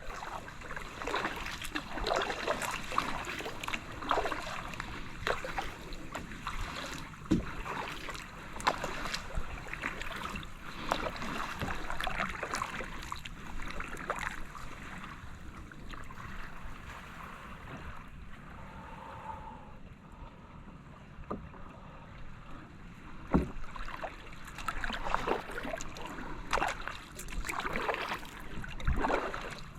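Kayak paddle strokes dipping and splashing in the water, with drips and small knocks coming irregularly, easing off about two-thirds of the way through before picking up again.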